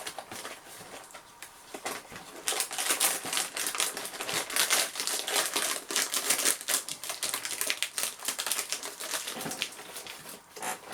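Cracker packaging being opened by hand: the wrapper crinkling and crackling in a dense run of sharp crackles that swells a couple of seconds in and dies away near the end.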